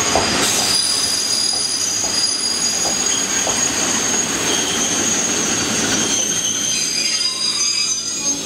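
Freight train of cement tank wagons rolling slowly past, its steel wheels squealing on the rails in several high, steady tones over the rumble of the wagons, with a few clacks of wheels over rail joints in the first seconds.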